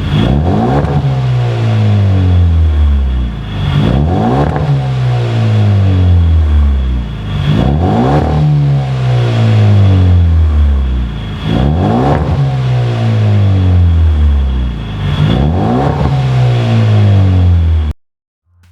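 Hyundai Veloster Turbo's turbocharged four-cylinder, fitted with a performance exhaust, being revved while parked: five sharp throttle blips about every four seconds, each rising quickly and sinking back to idle. The sound cuts off suddenly near the end.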